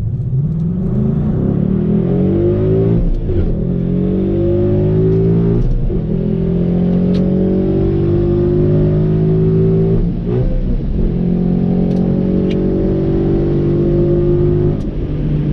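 2011 Ford Mustang GT's 5.0-litre V8 with an MBRP H-pipe and cat-back exhaust at full throttle down a quarter-mile drag strip. Engine pitch climbs steadily, breaks at manual upshifts about 3, 6 and 10 seconds in, then climbs again. It backs off near the end.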